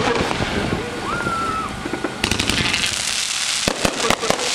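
Consumer fireworks cake (Winda's 'Angry Pandas') firing, with sharp bangs of shots and breaks. There is a short whistling tone about a second in, and from about two seconds in a steady crackling hiss under more bangs.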